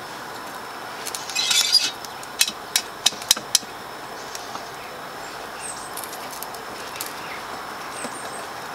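Chunks of pallet fatwood put into a small metal Crusader stove: a brief scrape, then five sharp clinks of wood knocking on the metal, over a steady hiss.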